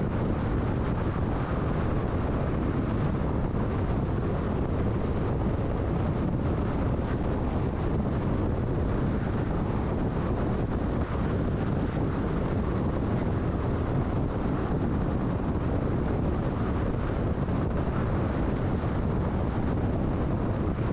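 Steady road and wind noise of a car cruising at freeway speed: an even low rumble of tyres and wind with no change in pitch or level.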